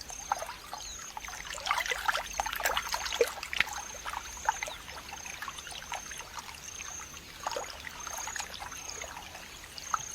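Shallow water trickling and splashing in small irregular bursts, with a high short chirp repeating steadily a bit less than twice a second.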